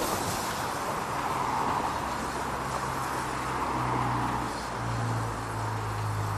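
Steam railway train running: a steady rushing noise, with a low hum coming in about halfway through that steps up in pitch near the end.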